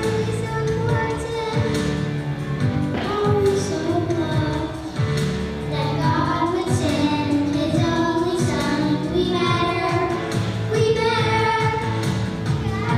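Song with children's and women's voices singing over a steady backing track with a beat.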